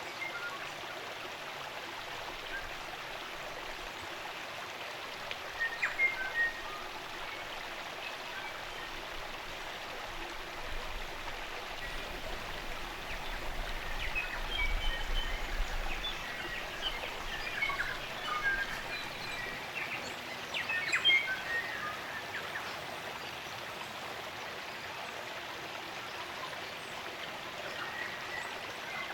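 Steady running water of a spring-fed stream, with native New Zealand forest birds singing over it in short bursts of chirps, busiest in the middle stretch.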